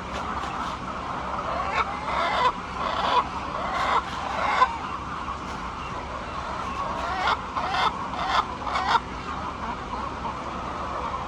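Hens clucking over a steady murmur of the flock, with bursts of louder calls a couple of seconds in and again in the later half.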